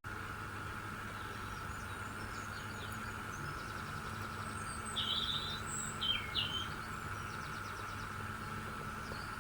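A steady low hum with a faint steady tone above it, and a few short bird chirps a little past halfway.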